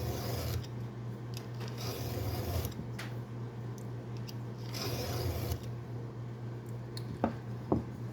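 A round file rasping across a chainsaw chain's cutter tooth in about three strokes a couple of seconds apart, then two light clicks near the end. A steady low hum runs underneath.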